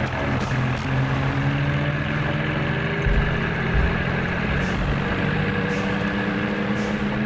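Tractor engine running steadily, its pitch drifting slightly up and down.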